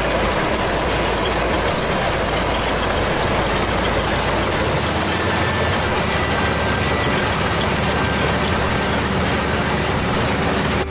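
Maxxi Bimo combine harvester running: a steady, dense clatter of engine and threshing machinery, with the deepest rumble easing about four and a half seconds in.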